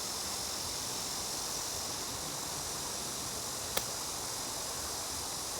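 Steady high-pitched hiss of background noise, with one sharp click nearly four seconds in.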